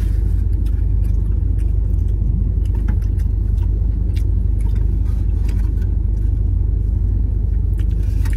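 Steady low rumble under faint, scattered clicks of mouth sounds from gnawing and sucking meat off a chicken bone.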